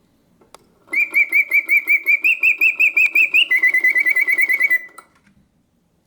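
1950s Karl Griesbaum singing bird cage automaton, set to its pause function, singing one phrase of whistled birdsong after a quiet gap. A soft click comes about half a second in. The song starts about a second in as a run of quick chirps rising slightly in pitch, then turns into a faster, lower trill that stops shortly before the end.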